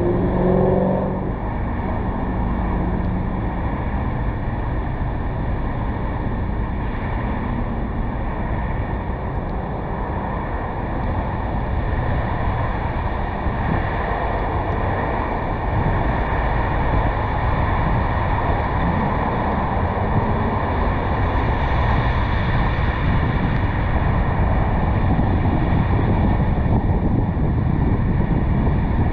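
Steady rush of wind and road noise from a car driving along, picked up by a camera mounted on the car's roof.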